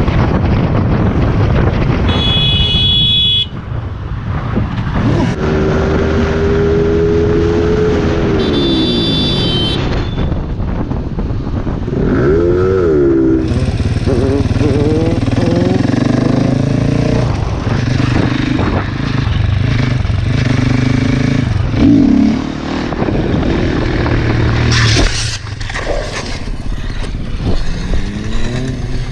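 Motorcycle engines running and revving, their pitch rising and falling through several gear changes. Two short high-pitched tones come in, about two seconds in and again about eight seconds in.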